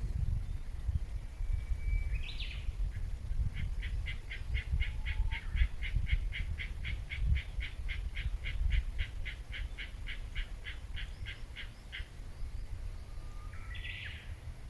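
Wild birds calling: a short whistled note ending in a rising flourish, then a long series of about three quick repeated notes a second lasting around eight seconds, and another short call near the end. A low rumble runs underneath.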